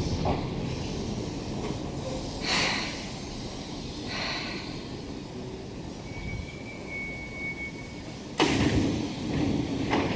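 Seibu Railway electric commuter train settling to a stop at the platform, its running noise fading, with two short hisses of air. A sudden loud thump of its sliding doors opening comes about eight seconds in.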